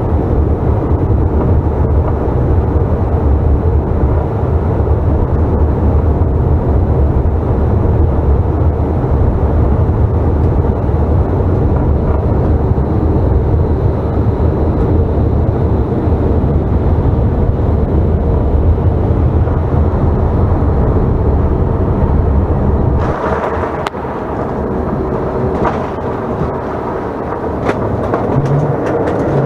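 Cabin noise of a Delta CRJ900 regional jet with its tail-mounted GE CF34 turbofans: a loud, steady rumble of engines and airflow. About 23 seconds in the deep rumble drops away suddenly with a short burst of noise, and a few clicks follow.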